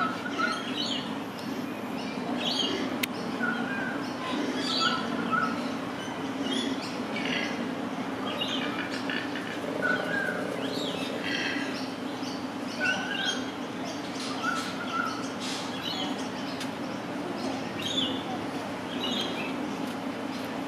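Small birds chirping in the background, short high calls repeating every second or so, over a steady low hum.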